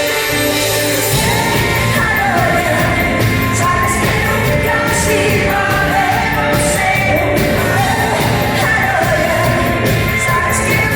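Live pop band playing with singing, loud and steady, in a large concert hall; the sung melody comes in about two seconds in over a steady drum beat.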